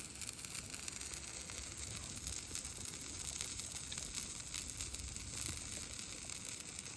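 Food sizzling in a pan at a camp cookout: a faint, steady hiss with fine crackles.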